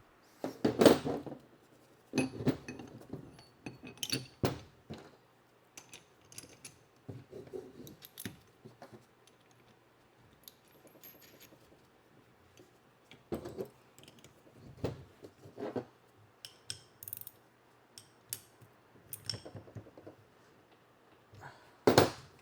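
Irregular metallic clinks and knocks as the steel parts of an engine support bar (bracket, bolts, washers) are handled and fitted together, with a quieter lull partway through.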